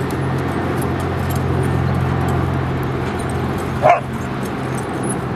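A dog at a dog park gives one short, sharp bark about four seconds in, over a steady low hum and background noise.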